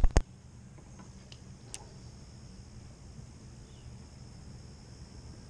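A couple of sharp knocks right at the start, then quiet outdoor ambience: a steady high-pitched insect drone over a faint low hum, with a few light ticks in the first two seconds.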